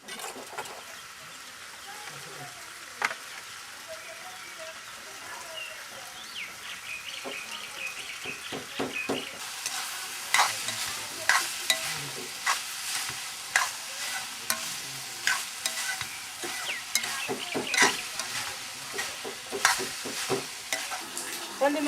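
Food frying in a pan with a steady sizzle, and a utensil stirring and scraping against the pan in irregular sharp clicks that come more often from about halfway through.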